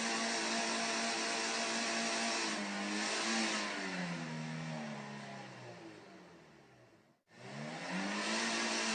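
Car engine held at high revs, then its pitch falls away as it fades out about seven seconds in; after a short break an engine revs up again with rising pitch.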